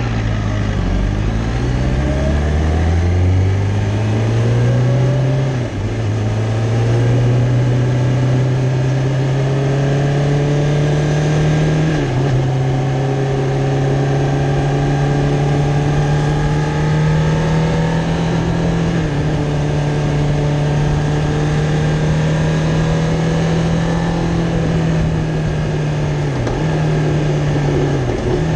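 Kawasaki Ninja ZX-10R's inline-four engine heard from on the bike, accelerating with rising pitch and dropping back at a few quick upshifts in the first six seconds. It then holds steady moderate revs in third gear, easing off briefly a few times.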